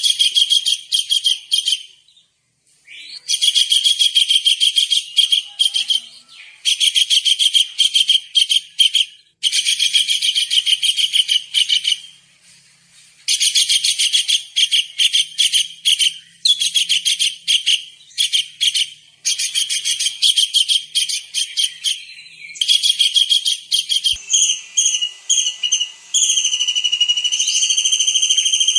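Kingfisher calling in fast runs of sharp, high notes, each run lasting a second or two with short breaks between. Near the end the calls change to a steadier, drawn-out high whistling.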